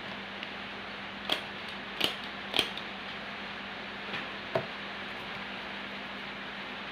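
Five short sharp clicks or snips from hands packing small bird leg rings, spread over a few seconds, over a steady hiss and a low hum.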